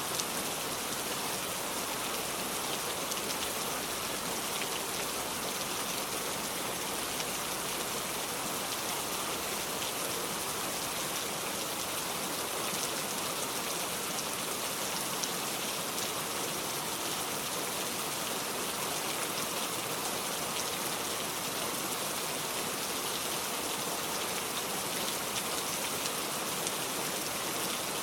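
Heavy rain falling steadily on a metal roof, a dense, even patter of drops.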